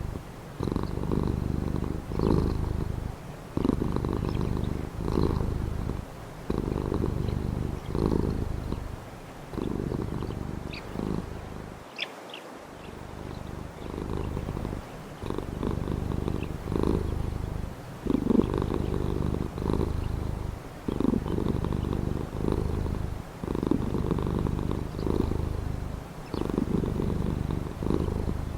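Domestic cat purring close up, the purr swelling and easing with each breath in and out, about once a second. It dips to a softer stretch about halfway through.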